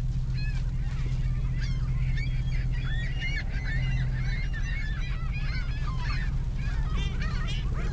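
A flock of gulls calling, many short overlapping calls from several birds at once, over the steady low hum of an idling truck engine.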